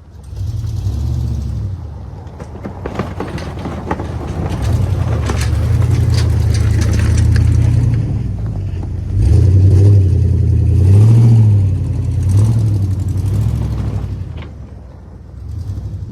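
Snow-plow truck engine running and revving up and down in repeated swells while plowing, with a clatter of knocks early on and the loudest surge past the middle.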